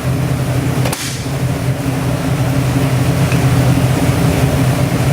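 Ford 482 cubic-inch FE V8 crate engine with an aluminum Shelby block, running without its supercharger fitted, held at a steady speed on a test run. There is a brief dip and click about a second in.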